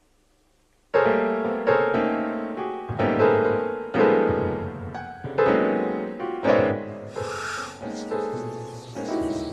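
A slow, sad piano tune starting about a second in, each note struck and left to fade.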